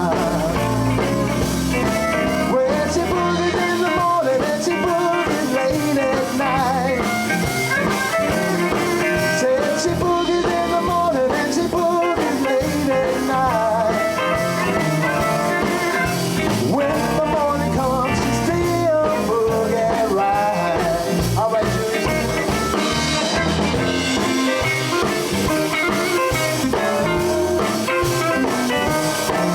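Live blues band playing steadily, with electric guitar and other lead lines over drums and bass.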